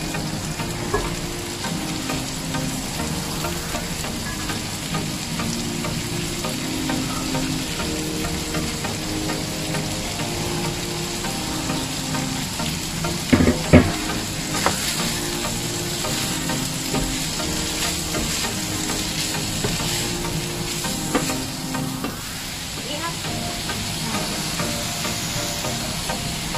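Ground pork, cherry tomatoes and spiralized zucchini sizzling in a frying pan while being stirred with a wooden spoon, with a few sharp knocks about halfway through.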